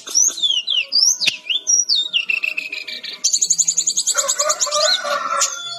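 Jungle flycatcher (SRDC, Sikatan-rimba dada-coklat) singing: quick whistled notes sliding up and down, then from about three seconds in a fast, even trill lasting about two seconds.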